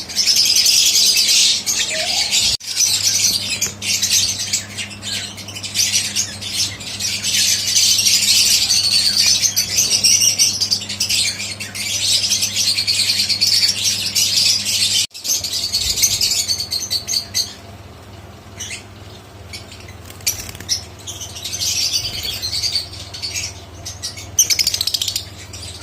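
Pet lovebirds chattering and squawking, many shrill calls overlapping. The calls are busy and loud at first and thin out to scattered calls in the last several seconds.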